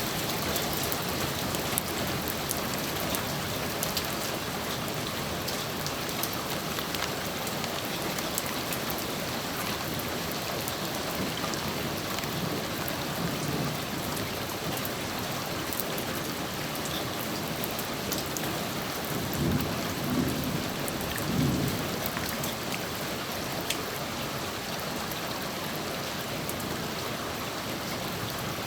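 Steady heavy rain falling and pattering on surfaces, with a distant thunder rumble rolling in about two-thirds of the way through.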